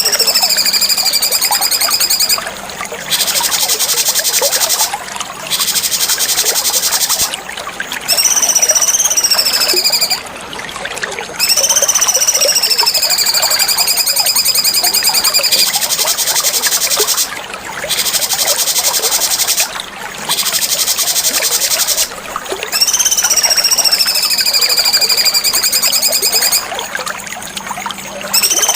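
Cucak cungkok singing over and over, alternating long high whistled notes that slide down in pitch with fast, buzzy high trills, with short pauses between phrases.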